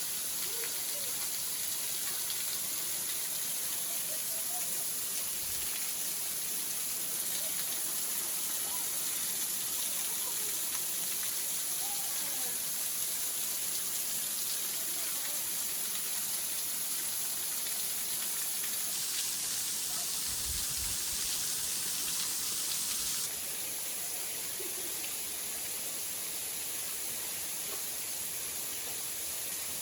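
Steady rushing hiss of falling water from a waterfall, with faint voices in the background; it gets slightly quieter about 23 seconds in.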